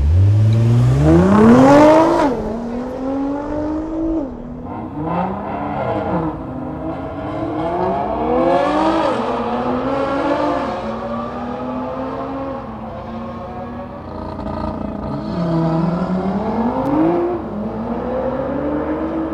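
Sports car engine and exhaust revving hard, the pitch climbing steeply over the first two seconds, then rising and falling again and again as the throttle is worked.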